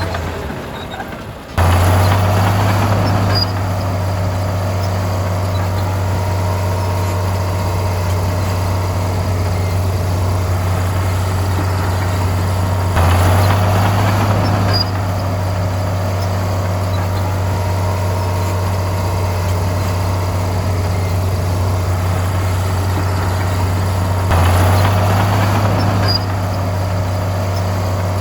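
Heavy bulldozer diesel engine running at a steady low pitch. About every eleven seconds it swells into a louder, rougher stretch of about two seconds, in identical repeats. The sound dips briefly at the start and cuts back in abruptly.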